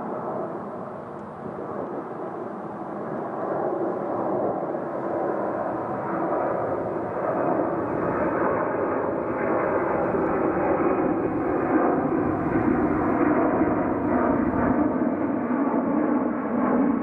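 Jet airliner's engines running at high thrust, a steady rumble with faint whining tones, growing gradually louder after a dip about two seconds in.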